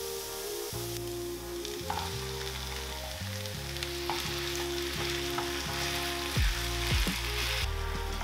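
Diced carrots, onion and ground chicken sizzling in a nonstick frying pan while being stirred and broken up with a wooden spoon, with a couple of sharp knocks near the end. Soft background music with sustained notes runs underneath.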